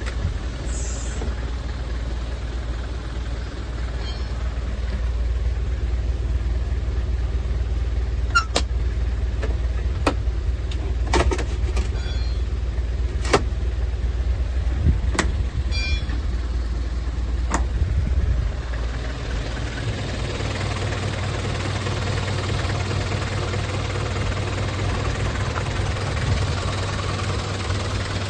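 Mitsubishi Canter's 4D36 four-cylinder diesel engine running, with a handful of sharp clicks or knocks through the middle. About two-thirds of the way through, the engine note rises and stays higher.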